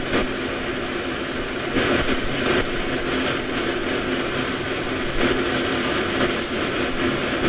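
Compressed-air paint spray gun hissing in short passes over a steady mechanical drone.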